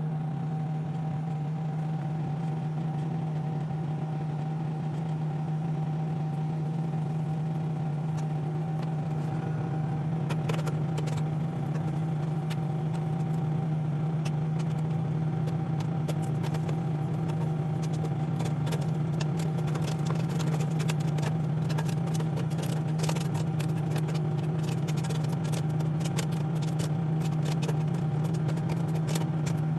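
Microwave oven running with a steady hum while popcorn kernels pop inside it: the first few pops come about ten seconds in, then grow into rapid, dense popping through the second half.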